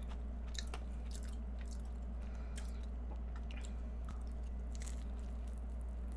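Close-miked chewing of a custard egg tart: faint, scattered soft clicks and crackles of mouth and pastry, over a steady low hum.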